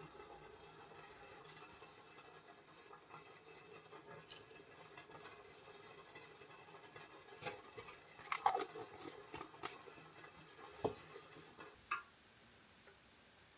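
Scattered light clicks and taps over a faint steady background, coming more often and louder in the middle and stopping shortly before the end.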